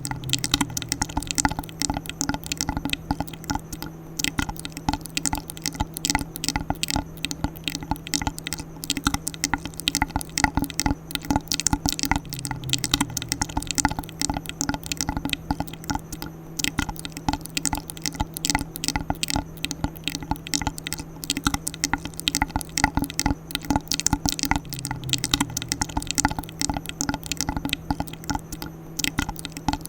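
ASMR mouth sounds made close to the microphone: quick wet clicks and smacks, several a second, with a faint steady hum underneath.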